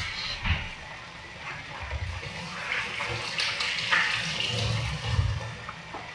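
Irregular rushing and splashing of water.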